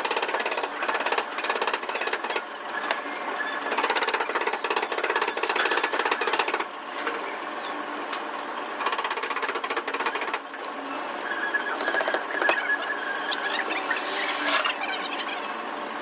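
A power tool running with a rapid rattling hammer, pausing briefly twice, over a steady high whine.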